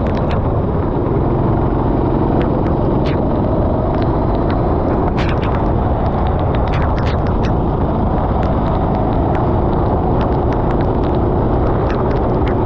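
Racing kart engine running under load through a lap on a wet track, its pitch slowly rising and falling, under a loud steady rumble, with scattered sharp ticks throughout.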